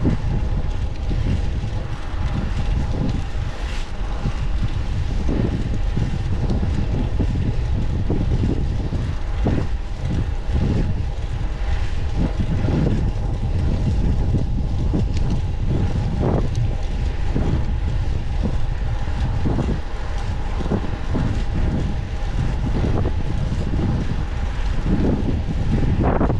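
Wind buffeting the microphone of a moving bicycle rider, a steady rush that swells and eases unevenly, with road and traffic noise and a faint steady hum beneath.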